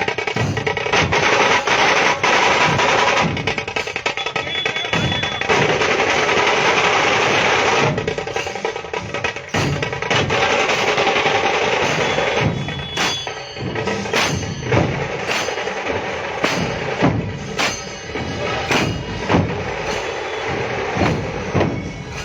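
Loud drumming: a fast run of drum strikes over a dense, noisy wash of sound. About halfway through it thins out into more separate, spaced hits.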